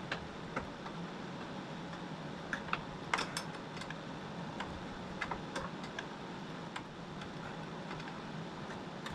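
Irregular light clicks and taps of hand tools on metal, the loudest cluster about three seconds in, over the steady hum of space heaters running.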